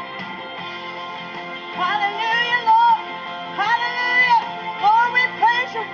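Woman singing a gospel worship song over sustained instrumental chords; her voice comes in about two seconds in with sliding, drawn-out phrases.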